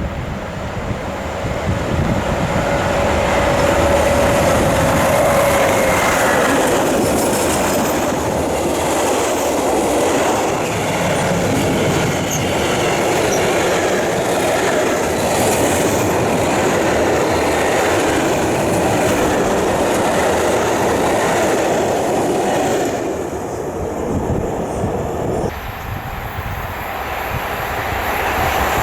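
A train passing on the line, its wheels running and clattering over the rails with a loud, steady rumble and a steady high tone a few seconds in. The sound drops and changes abruptly near the end.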